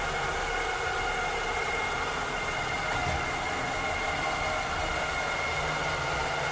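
Robotic cleaner running steadily: its motor gives an even hiss with a high, steady whine of several tones over a low rumble.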